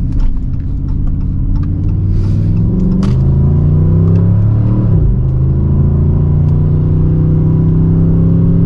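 Dodge Charger R/T's 5.7-litre Hemi V8 pulling under acceleration: its note climbs for about five seconds, drops once as the automatic transmission shifts up, then climbs slowly again.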